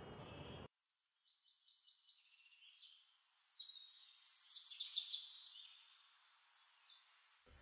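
Faint, high-pitched birds chirping and calling, loudest midway, with no low background under them; a steady street noise cuts off abruptly less than a second in.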